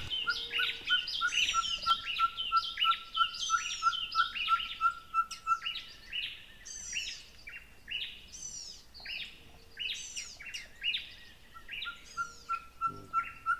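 Several wild birds calling together: many quick chirps and downward-sweeping notes overlapping. A steady run of single-pitched notes, about three a second, goes through the first half and starts again near the end.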